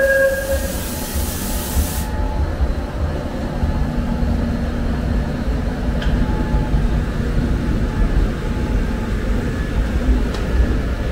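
ITX-Saemaeul electric train running with a steady low rumble, with a brief hiss over the first two seconds.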